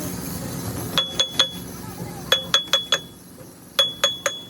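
Metal tapping sharply on metal, each strike ringing with the same high note, in three quick runs of three, four and three taps.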